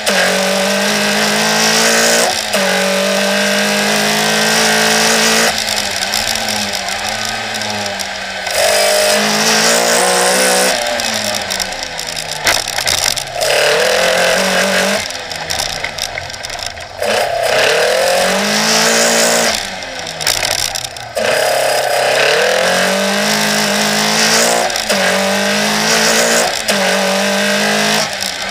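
Toyota Starlet KP rally car's 3S-GE BEAMS four-cylinder on individual throttle bodies, driven hard, heard from inside the car. It revs up through the gears with repeated lifts and shifts, the pitch climbing and dropping several times.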